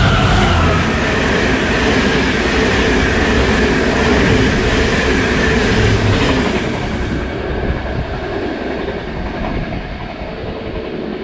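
Irish Rail 201 Class diesel locomotive and its Mark 4 intercity coaches passing at speed, a loud rush of wheels on rail with a faint whine falling slowly in pitch. After about seven seconds, as the last coach goes by, the sound thins out and fades as the train moves away.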